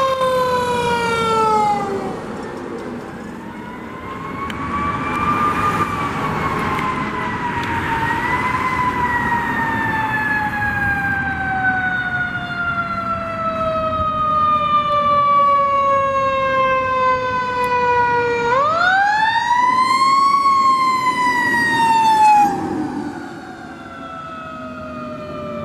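Fire truck siren wailing as the apparatus responds, its pitch winding down, then up, then falling away slowly for about ten seconds before sweeping sharply up again near the end and falling off, over the rumble of passing traffic.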